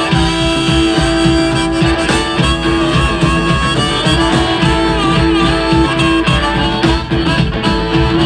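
Live blues band playing an instrumental fill between sung lines: a steady beat from drums and bass under a lead instrument that holds one long note for about six seconds, while other notes bend up and down around it.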